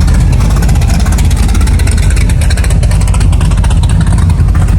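A car engine running loudly and steadily, its exhaust pulses coming fast and even.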